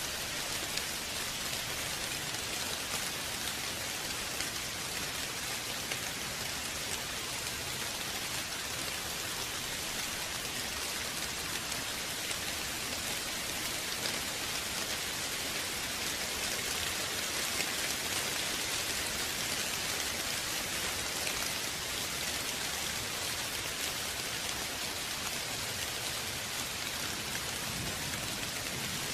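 Steady rain falling and pattering on surfaces, an even hiss of many drops without a break.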